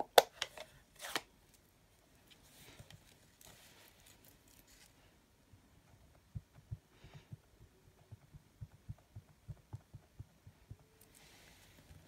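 Stamping tools handled on a craft desk: a few sharp clicks and knocks in the first second, a spell of paper rustling, then a long run of soft low thumps, about two a second, from a stamp being tapped and pressed down.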